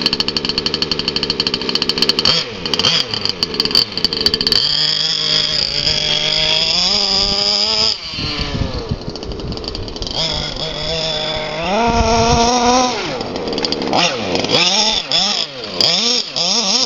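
Oddified 29cc stroker two-stroke engine with a tuned pipe in an FG Marder large-scale RC buggy, revving up and down several times, its pitch rising and falling as the throttle is opened and closed.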